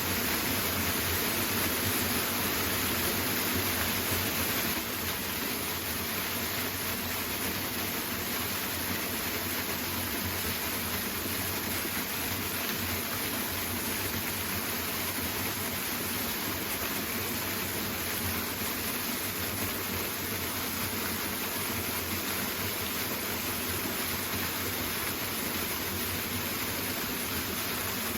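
Waterfall rushing steadily, an even wash of falling water, a little louder for the first five seconds.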